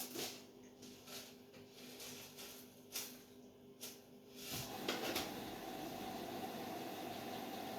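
Beko 10 kg washing machine running a quick wash of bedding and towels: a low steady hum with a few separate soft knocks, then about four and a half seconds in a louder, steady rushing hiss sets in and holds.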